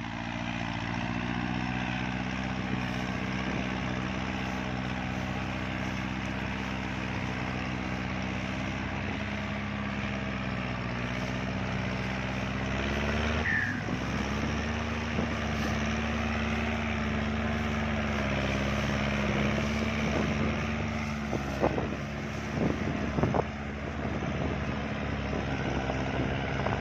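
Kubota tractor diesel engine running steadily under load while driving a rotary tiller through wet ground. About halfway through, the engine note dips briefly and then settles a little higher. A few short knocks come near the end.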